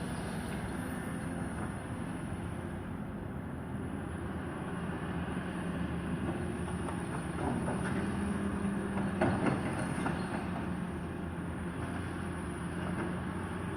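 Demolition excavator's engine running steadily, with a cluster of knocks and crunches about eight to ten seconds in.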